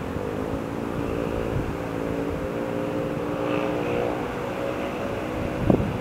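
An engine running steadily with an even hum, and a few gusts of wind buffeting the microphone near the end.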